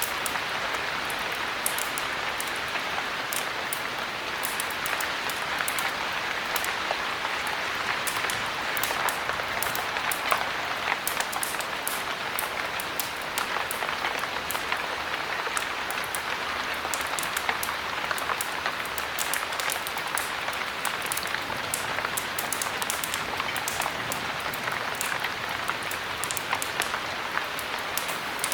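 Heavy rain falling steadily, with a wood fire crackling in frequent small sharp pops.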